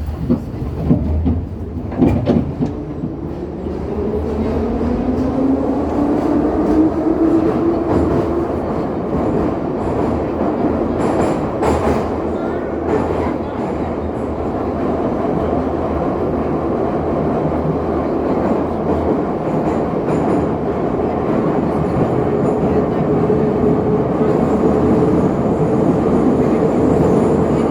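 Metro train pulling away and picking up speed. The traction motors' whine rises in pitch over the first several seconds, with a few knocks near the start, then the car runs at speed with a steady loud running noise.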